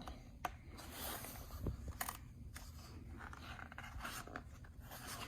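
Picture-book pages being handled and turned: soft paper rustling with a few light clicks at irregular moments.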